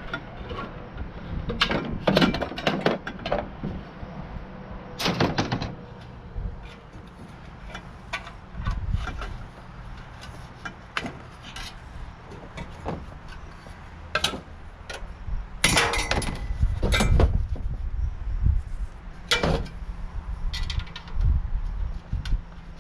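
Irregular metal knocks and clicks, with a brief ringing after some strikes, of hand tools working small collar fittings off the copper pipes of a tankless water heater.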